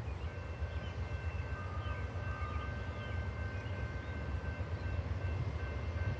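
Norfolk Southern freight train cars rolling past, a steady low rumble of steel wheels on the rails, with faint steady high-pitched ringing tones above it.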